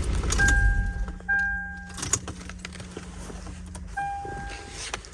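Short electronic beeps inside an SUV's cab, all at one steady pitch and each about half a second long. Two come close together near the start and a third about four seconds in. Under them are a low rumble that fades in the first second, a steady low hum that stops about four seconds in, and a few sharp clicks.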